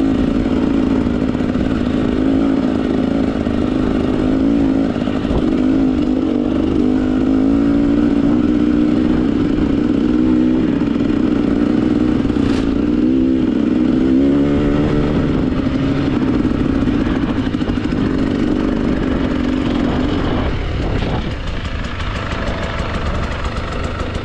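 Husqvarna TE 300 two-stroke dirt bike engine running under way, its revs rising and falling with the throttle.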